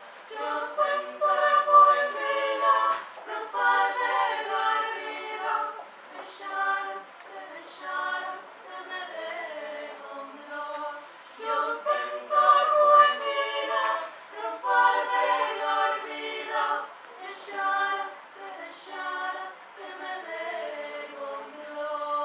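Small choir singing a Swedish song unaccompanied in several-part harmony, phrase by phrase, with short gaps for breath between phrases.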